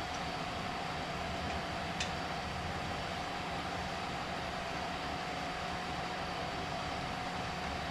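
Steady mechanical hum with a constant whine, and a single light click about two seconds in.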